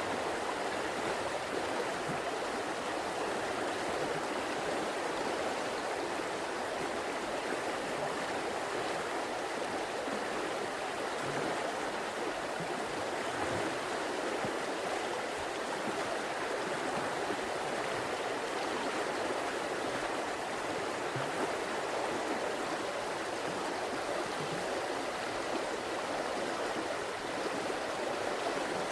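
River water flowing steadily, a continuous even rushing and babbling.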